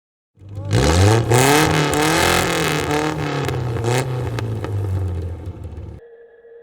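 A high-performance car engine revving hard, its pitch climbing and dropping several times over a loud exhaust roar, then cutting off suddenly about six seconds in.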